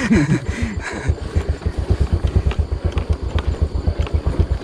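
Small motorcycle engine running at low speed with a steady rapid low pulse, the bike rattling over a rough dirt trail with occasional sharp knocks.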